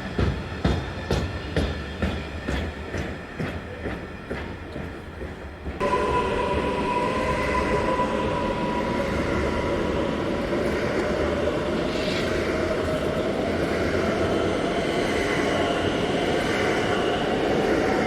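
Train wheels clattering rhythmically over rail joints. About six seconds in, this gives way abruptly to louder, steady train running noise with a high steady whine and a slowly rising tone.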